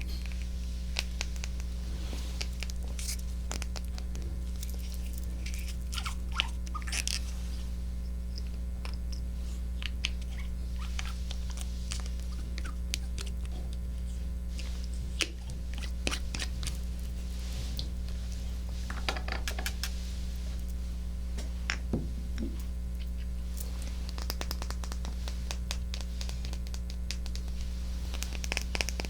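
Close-miked ASMR trigger sounds on a binaural microphone: soft, irregular clicks, taps and light scratching, with a few swishing strokes, over a steady low hum.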